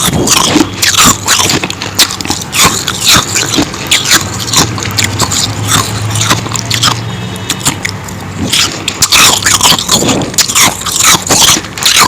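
Close-miked crunching and chewing of powdery ice, irregular bites and grinding crunches, easing off for a couple of seconds around the middle before picking up again.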